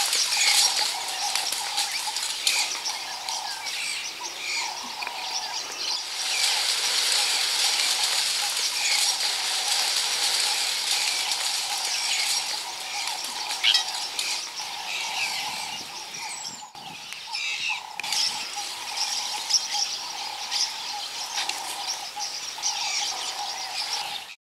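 Birds chirping and calling again and again over a steady high hiss of bush ambience.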